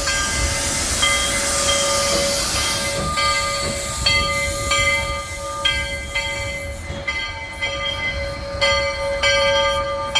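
Steam locomotive hissing steam at a standstill, with metallic ringing tones over a steady hum. The hiss is strongest in the first few seconds and fades about two-thirds of the way in.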